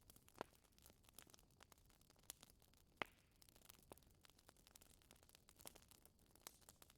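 Wood fire in a fireplace crackling faintly, with irregular small clicks and a sharper pop about three seconds in.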